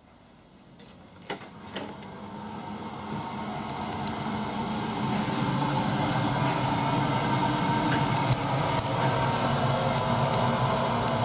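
Running noise of a sleeping car heard from inside the compartment: two sharp clicks about a second in, then a steady rumble that grows louder over several seconds and then holds, with scattered small ticks.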